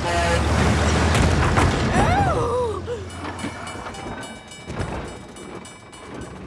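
Cartoon train sound effect of a diesel railcar running along the track. It is loud with a low rumble for about the first three seconds, with brief rising-and-falling squeals around two seconds in, then drops lower under background music.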